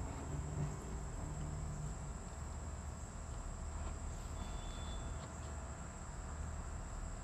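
Steady outdoor ambience: a continuous high-pitched insect drone over a low, even background hum, with a brief faint thin tone about four and a half seconds in.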